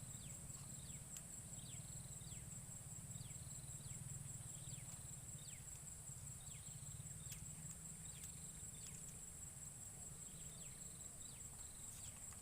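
Forest ambience: a steady, high-pitched drone of insects, with short falling chirps repeating about once a second over it.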